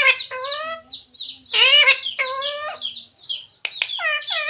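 A talking parrot's shrill, speech-like calls, in about five short bursts with rising and falling pitch.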